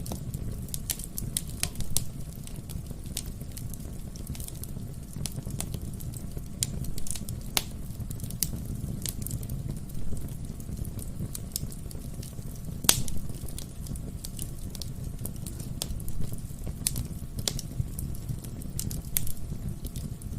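Wood fire burning in a fireplace: a steady low rumble of flames with irregular sharp pops and crackles from the burning logs, two louder pops around eight and thirteen seconds in.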